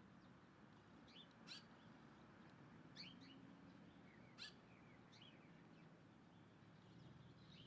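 Faint, high, short chirps from small birds, a handful of quick calls a second or so apart, over a low steady hum.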